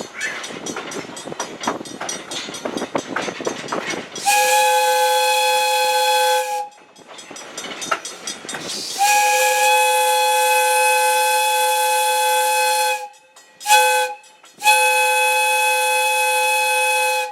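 Steam whistle of Valley Railroad Mikado #40 blown in a long, long, short, long pattern, the grade-crossing signal, loud and close, over the rattle of the moving train. The first long blast starts about four seconds in, after the rattle of the train alone.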